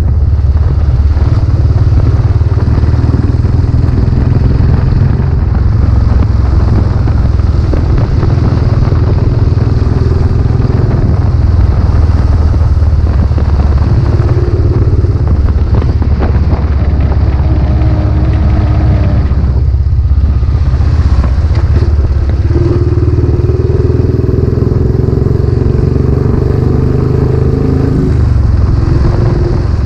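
Royal Enfield Classic 500's 499 cc single-cylinder engine running under way through its newly fitted silencer. The engine note dips briefly about two-thirds of the way through and drops in pitch near the end.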